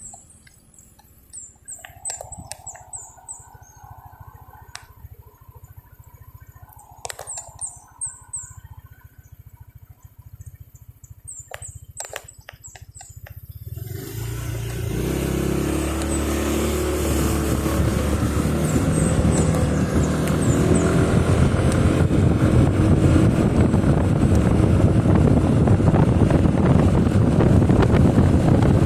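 A quiet stretch with high chirps in short quick runs and a few clicks, then about halfway in a motorcycle's engine and wind noise on the microphone build up and hold steady as the bike rides on.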